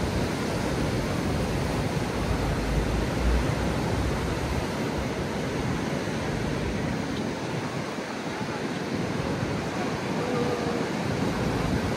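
Heavy ocean surf, waves breaking in a steady rush of noise, with strong wind on the microphone.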